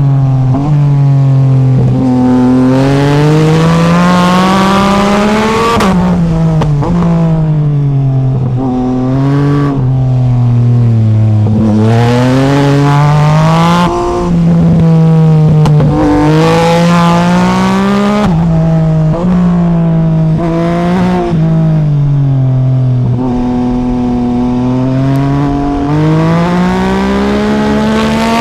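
Yamaha MT-09 SP's inline-three engine under way, its pitch climbing as it accelerates, dropping sharply at gear changes and sliding down as the bike slows, several times over. Loud and continuous.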